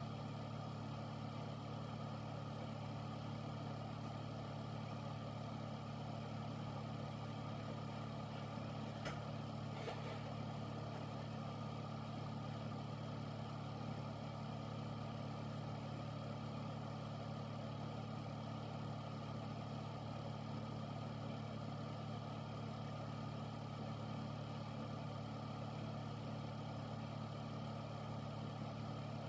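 Air filter's fan running steadily: a low, even hum with an airy rush over it. Two faint ticks about nine and ten seconds in.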